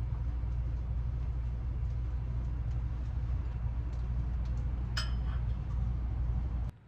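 A steady low mechanical hum, with faint ticks over it and one sharp click about five seconds in, that cuts off abruptly near the end.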